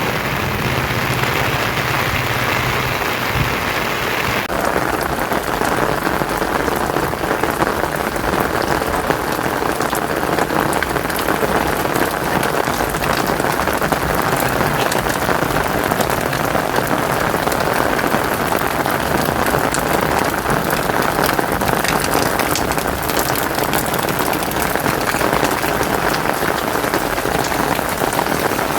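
Heavy rain pouring down and pattering onto surfaces, a dense steady hiss full of close drop strikes. For the first four seconds or so a low hum runs under the rain, then stops abruptly.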